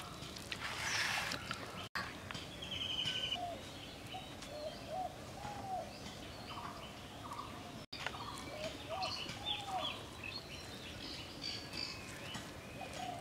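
Birds calling in the background: two runs of short rising-and-falling calls with higher chirps above them. There is a soft rustle about a second in, from food being mixed by hand in a glass bowl.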